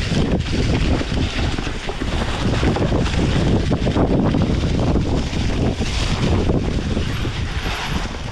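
Wind buffeting the microphone: a loud, unsteady rumble and rush that swells and dips throughout.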